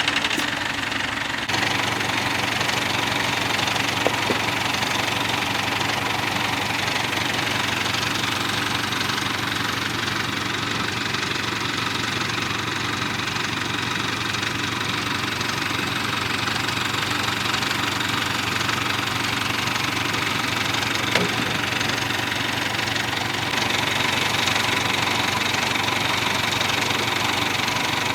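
An engine running steadily at idle, with a small step up in level and brightness near the end.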